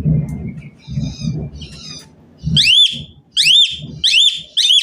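Asian pied starling (jalak suren) singing: soft chattering over low muffled sounds at first, then, about halfway through, a run of four loud whistled notes, each rising and then falling.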